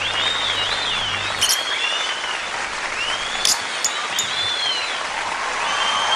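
A flock of lovebirds chattering at once: a dense twittering with arching whistled calls and a few sharp, piercing chirps cutting through.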